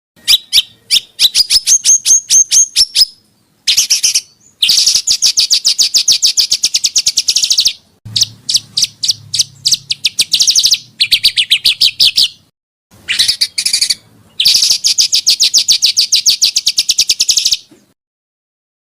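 Small songbirds calling in fast, rapid-fire trills: dense runs of sharp, high notes in phrases a few seconds long, with short pauses between them. The calls stop about a second before the end.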